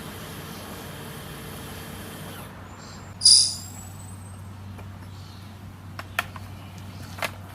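Kärcher battery pressure washer's motor running steadily, then stopping about two and a half seconds in. Just after, a short, sharp, loud hiss, then a few light clicks.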